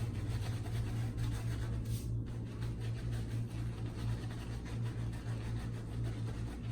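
Paladin shaving brush swirling and scrubbing lather from Williams mug soap in a ceramic shaving mug, a soft continuous scratchy brushing. A steady low hum runs underneath.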